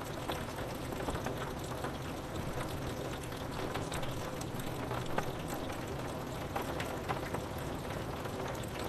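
Steady rain falling on window glass, a constant hiss with scattered individual drop taps.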